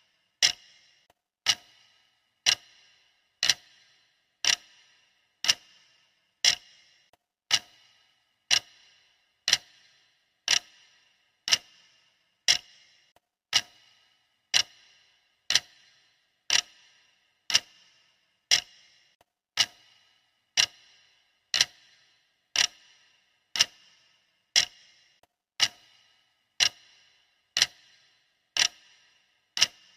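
Clock ticking, one sharp tick about every second at an even pace: the timer's steady ticking sound.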